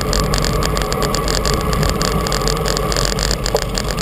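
Steady rushing wind and road noise from moving along a road, buffeting the camera's microphone with a rapid, uneven flutter.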